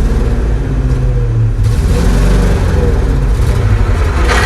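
Old three-ton truck's engine running hard under load, its pitch rising and falling. Near the end a harsh grinding noise sets in, which the driver puts down to the clutch and the transmission trying to catch gears.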